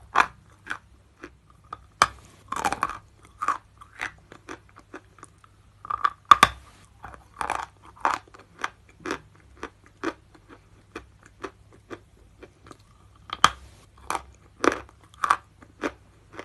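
Lumps of natural chalk bitten and chewed close to the microphone: irregular, sharp, dry crunches, about one or two a second, some coming in quick clusters.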